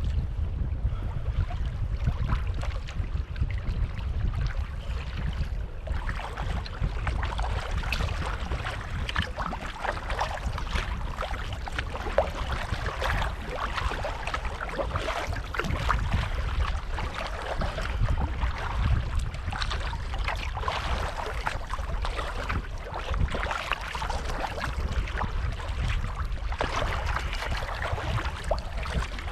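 Water splashing and lapping around a touring kayak under paddle, with wind rumbling steadily on the microphone.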